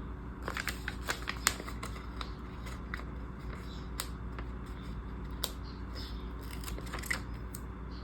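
Small clicks and rustles of planner supplies and their packaging being handled, busiest in the first second and a half, then lighter and scattered, over a steady low hum.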